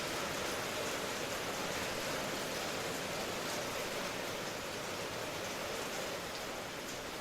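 Steady rain, a dense even hiss of falling rain.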